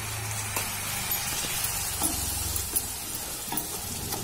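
Onion and spice masala sizzling in a kadhai as it cooks down with a few spoons of water, stirred with a wooden spatula that scrapes the pan and taps it lightly a few times. A low steady hum runs underneath.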